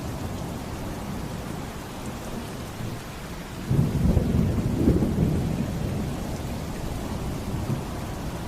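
Steady heavy rain with a low rumble of thunder that breaks sharply about four seconds in and fades over the next couple of seconds.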